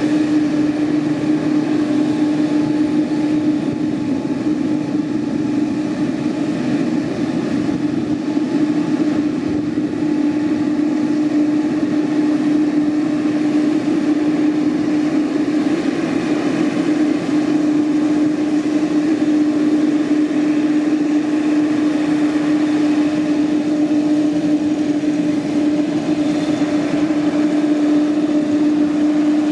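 Boeing 787-8's GEnx-1B turbofan engines running steadily at idle, a constant tone over an even rush of noise.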